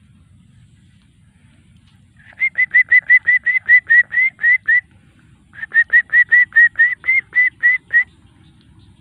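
A bird calling loudly in two runs of quick, clear chirping notes, about five a second, each run lasting two to three seconds with a short break between them.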